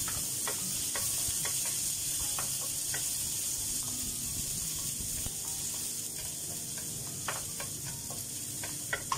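Chopped garlic and shallots sizzling in hot oil in a steel wok, with a steady hiss. A wooden spatula stirs them, making scattered light clicks and scrapes against the pan.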